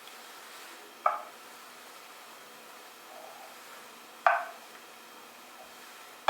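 Two sharp knocks of hard objects being handled, about three seconds apart, each dying away quickly, with a third just at the end, over faint room hiss.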